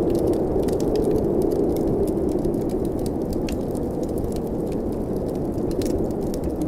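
Wood fire crackling with frequent small sharp pops, over the steady low rushing of blizzard wind.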